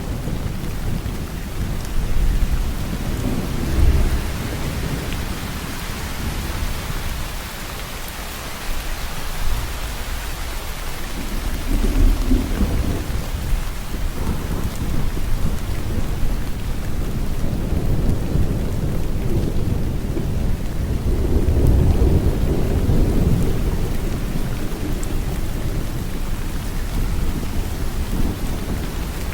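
Steady, heavy rain falling, with deep low rumbles that swell up a few times: about four seconds in, around twelve seconds, and longest a little past twenty seconds.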